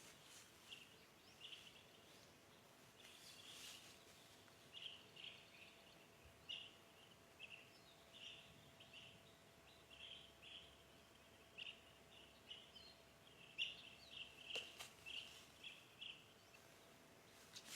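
Faint jungle birds chirping: short high chirps repeated irregularly, often one or two a second, over a faint steady hum, with a single sharp click about two-thirds of the way in.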